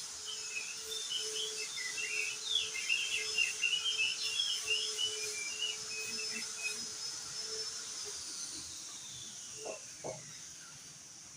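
Crested white-eye (opior jambul) singing: a rapid, jumbled run of high chirping and whistled notes lasting several seconds, then stopping. Two short low calls come near the end.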